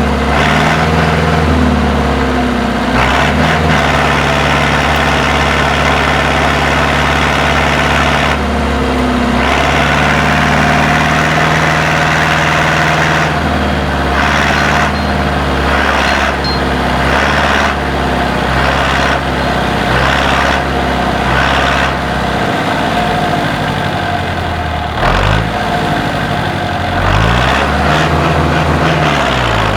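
IFA W50 4x4 truck's engine running steadily, then revving up and down several times near the end.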